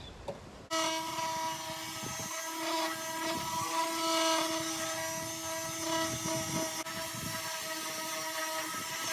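An electric power tool runs steadily with an even whine. It starts abruptly about a second in.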